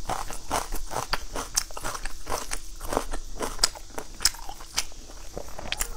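Close-miked chewing and crunching of food in a mouth, with irregular crisp clicks several times a second.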